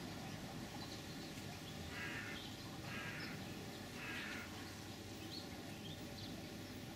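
A bird calling three harsh calls about a second apart, over steady outdoor background noise with faint short chirps.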